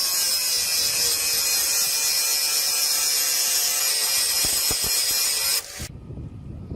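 Power grinder running steadily against steel, a whine with a hiss over it; it cuts off abruptly near the end.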